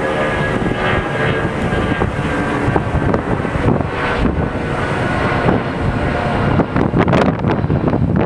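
Jet airliner engines running loud, with a high whine over a deep rumble that fades out in the first few seconds. Wind buffets the microphone near the end.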